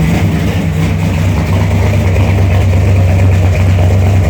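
Chevrolet 454 big-block V8 idling steadily on a cold start.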